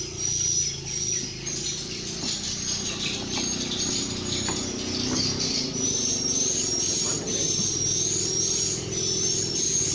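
A bird repeating short, high, slightly rising chirps about twice a second, over a low steady hum.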